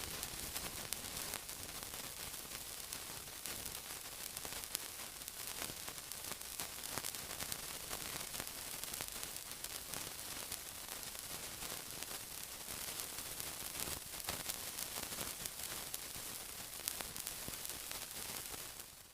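Sizzling: a steady hiss thick with fine, rapid crackles, which dies away just before the end.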